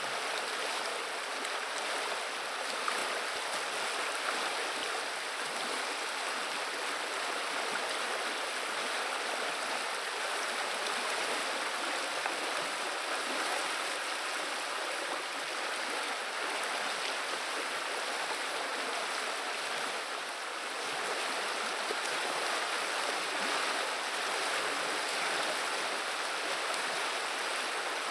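River water running and burbling steadily, an even rush with no breaks.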